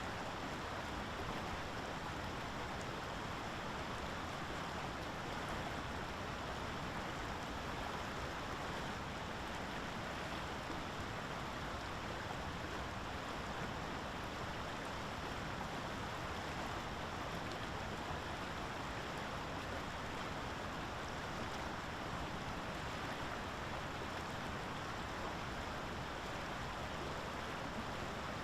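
Steady, unbroken rushing hiss of water, even in level throughout.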